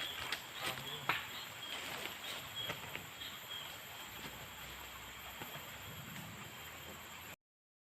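Outdoor ambience of steady, high-pitched insect buzzing, with a few light knocks and clicks, the sharpest about a second in; the sound cuts off abruptly near the end.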